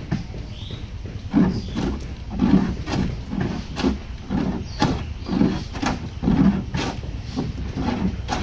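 Steady hand-tool blows on wood, about two a second, each a dull thump with a sharper click on top, as in building a wooden boat by hand.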